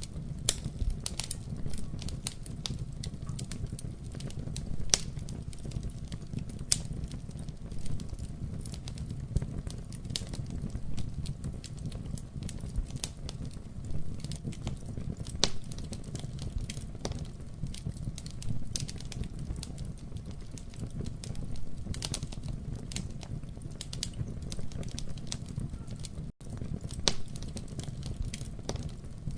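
Wood fire in a fireplace crackling and popping irregularly over a low steady rumble of flames. The sound cuts out for an instant about 26 seconds in.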